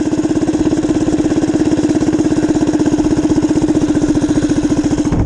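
Small single-cylinder minibike engine running steadily at idle, close up, with an even rapid firing pulse.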